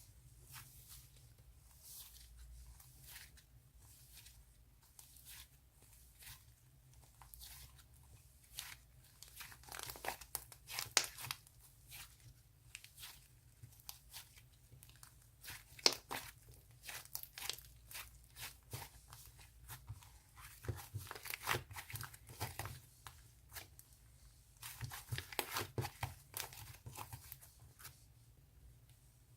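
Bread slime being pulled apart and squeezed by hand: soft tearing and crackling in short irregular clicks, coming in several thicker bursts.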